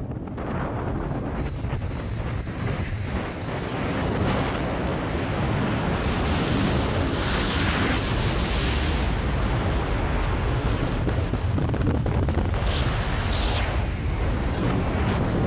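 Heavy, steady wind buffeting the microphone, with two stretches of brighter, hissier rushing partway through.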